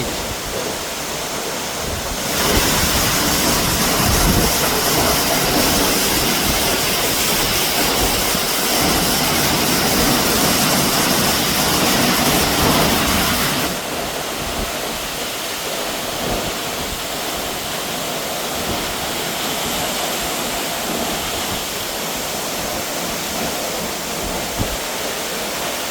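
Steady rushing roar of falling water from a waterfall. It grows louder about two seconds in and drops back suddenly around fourteen seconds in.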